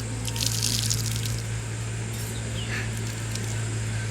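A short hissing noise about half a second in, lasting about a second, over a steady low hum.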